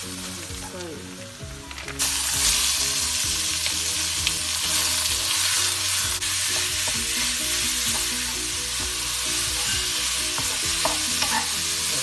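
Shiitake mushrooms and minced pork frying in hot oil in a wok, stirred with a wooden spatula. The sizzle jumps suddenly louder about two seconds in, as the raw minced pork goes into the pan, and then keeps on steadily.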